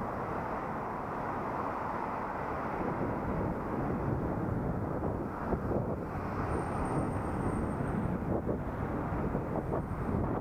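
Steady wind and road noise on a helmet-mounted action camera's microphone while riding, with a faint high whine for a second or two past the middle.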